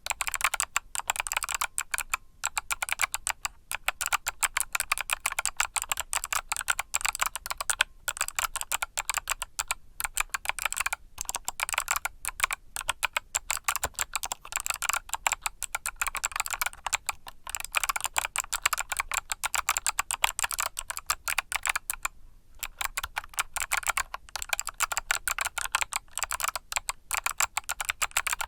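Mechanical keyboard with Kailh Box Summer switches being typed on steadily and quickly, a dense run of key clicks, with a brief pause about 22 seconds in.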